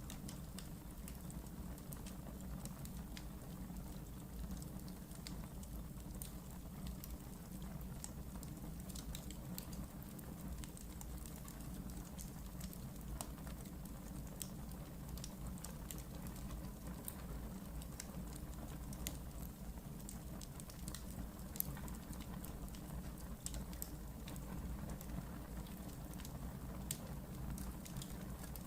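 Wood fire burning in a fireplace: a steady low rumble and hiss with many irregular sharp crackles and pops from the burning wood.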